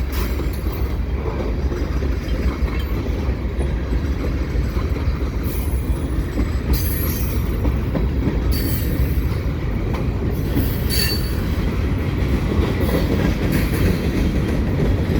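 Freight train cars rolling past close by with a steady low rumble, and short high-pitched wheel squeals coming every second or so from about five seconds in.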